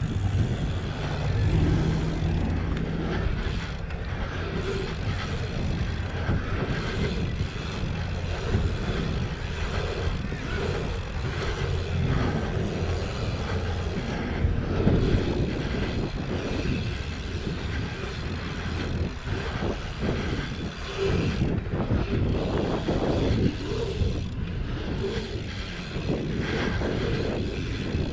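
Wind buffeting the microphone of a helmet chin-mounted action camera as a BMX bike is ridden on a dirt track. Tyre noise and short knocks and rattles from the bike come through an uneven rumble.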